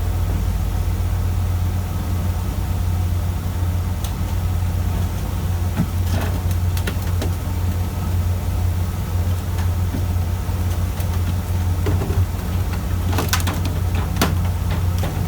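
Fishing boat's engine running steadily with a deep drone. A few sharp knocks and clatters come about six seconds in and again near the end.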